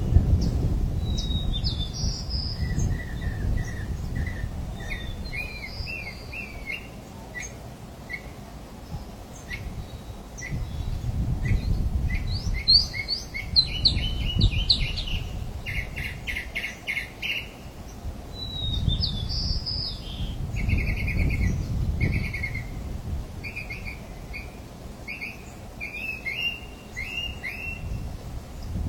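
Birds chirping and calling, many short chirps and quick trills, busiest in the middle, over a low rumble.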